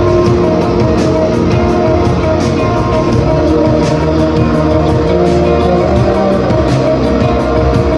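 A rock band playing loud and live, with electric guitars and drums. A steady, evenly spaced cymbal beat runs under it.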